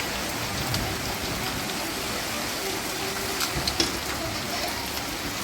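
Steady rain falling, an even hiss with a few sharper drops splashing about three and a half seconds in.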